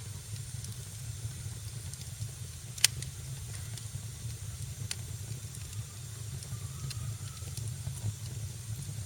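Wood fire crackling in a fireplace: a steady low rumble and hiss with scattered small pops, and one loud sharp pop about three seconds in.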